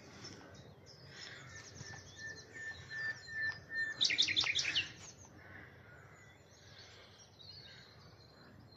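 Common nightingale singing: a long, steady whistled note, then a loud, rapid run of repeated notes about four seconds in, followed by quieter phrases.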